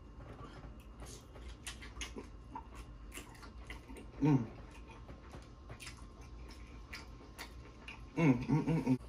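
A man chewing sauce-covered lobster tail meat, with many small wet mouth clicks. About four seconds in he hums a single falling "mmm", and near the end a quick run of short hums.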